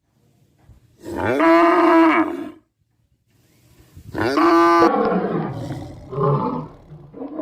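Two long, loud animal calls, each rising and then falling in pitch, followed by a few shorter, weaker calls.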